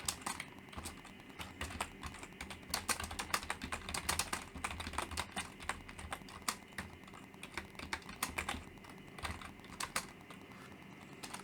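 Typing on a computer keyboard: quick, irregular key clicks in runs with short pauses, as a comment is written.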